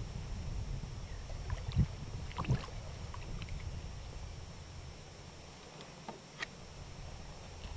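Sounds of a kayak on the water: a steady low rumble of water and wind on the hull and microphone, with a few light knocks and clicks, the loudest about two seconds in.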